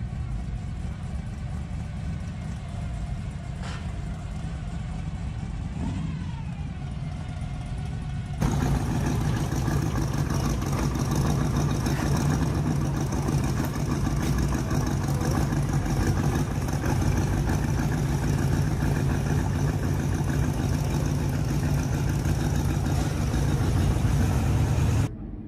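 Car engines running with a steady low rumble; the sound jumps abruptly louder about a third of the way in.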